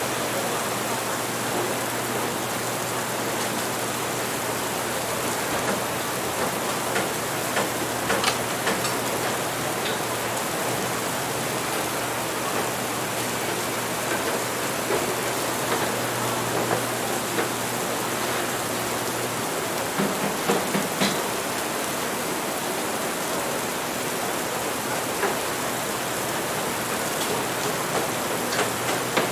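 Steady rain, an even hiss, with a few brief light clicks standing out over it: one about eight seconds in and a short cluster about two-thirds of the way through.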